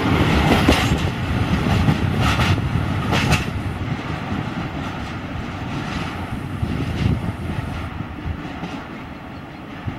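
Freight train of open coal wagons rolling past on the rails, with a few sharp wheel clacks. The sound fades steadily as the last wagons draw away.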